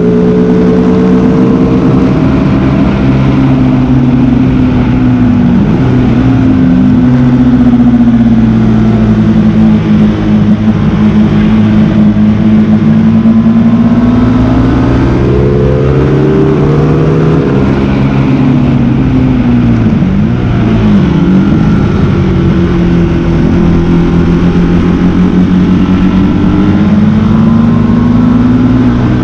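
Motorcycle engine running hard at speed, its pitch climbing and falling with the throttle and gear changes, with sharp drops about six and twenty seconds in.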